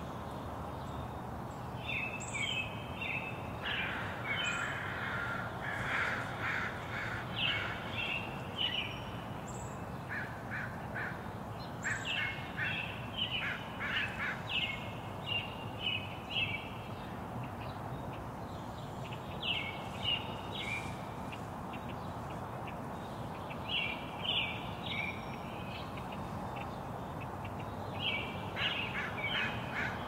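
Birds calling in short clusters of repeated notes, on and off throughout, over a steady background hiss.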